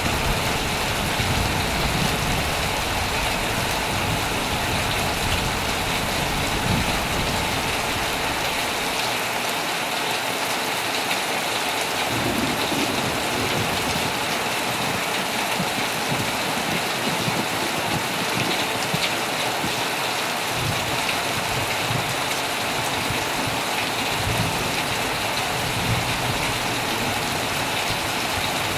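Heavy rain falling steadily on a tent. Low, distant thunder rumbles underneath for the first several seconds, dies away, and comes back in the last third.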